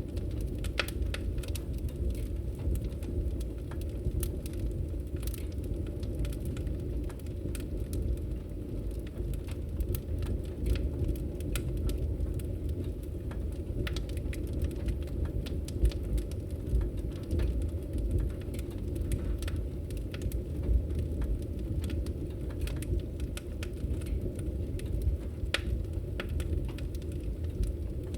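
Logs burning in a fireplace: a steady low rumble of flame with frequent small crackles and pops from the wood.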